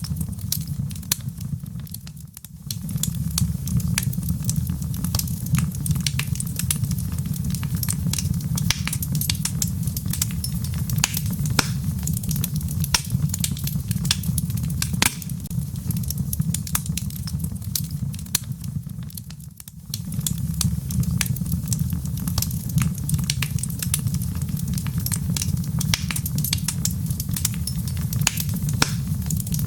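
Wood fire burning in a fireplace: dense crackling and popping over a steady low rumble, dipping briefly twice.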